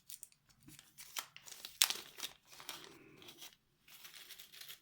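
A packaging bag crinkling and rustling in irregular sharp crackles as it is handled and opened by hand, with one louder crackle about two seconds in and a short pause near the end.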